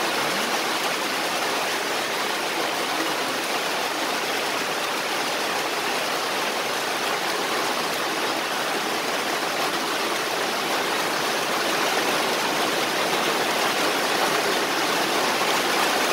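Rain falling: a steady, even hiss that carries on without a break.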